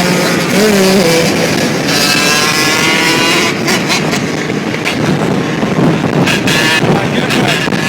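Dirt bike engines running hard, one revving up with a rising pitch about two seconds in. Short gusts of wind hit the microphone in the second half.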